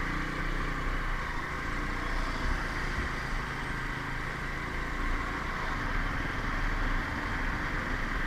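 Motorcycle engine running steadily while riding, with steady road and traffic noise.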